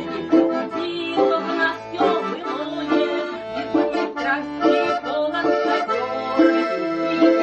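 Accordion playing an instrumental break between sung verses: a melody over a steady, rhythmic bass accompaniment.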